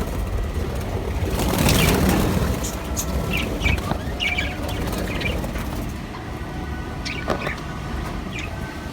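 Small parrots in an aviary giving short, scattered chirps, with a louder rustle about two seconds in, over a steady low rumble.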